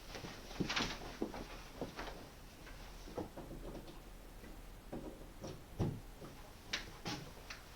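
Handling noise: scattered light clicks and knocks at irregular intervals, with a duller thud a little before the last couple of seconds, as the vacuum's power cord is being plugged in; the vacuum motor is not running.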